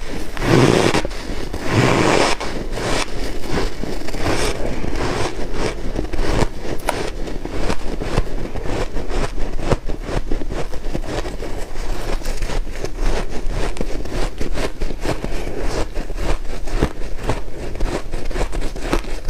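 Close-miked crunching of white ice being chewed: a dense, rapid crackle of small crunches, with heavier bites in the first couple of seconds.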